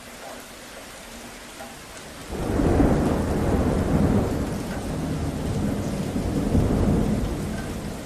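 Steady rain with a peal of thunder: a sudden low rumble breaks in about two seconds in, rolls on for several seconds and slowly fades near the end.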